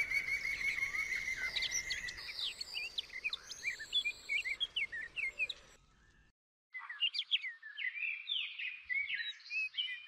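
Songbirds chirping and whistling in quick, varied calls, with one steady high whistle held through the first two seconds. The birdsong breaks off for about a second just before six seconds in, then a second stretch of chirping follows.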